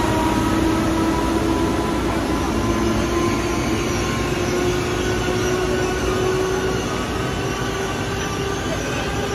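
Haramain high-speed train (Talgo 350) pulling in along the platform and slowing to a stop, its rolling noise under a whine that slowly drops in pitch as it decelerates.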